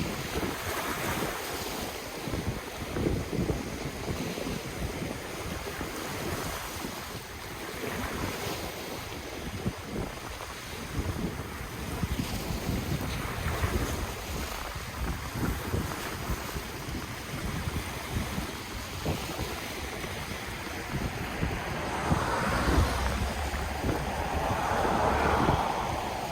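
Ocean waves breaking and washing in, a steady surf hiss that swells every few seconds, with the biggest wave near the end. Wind buffets the microphone with a low rumble.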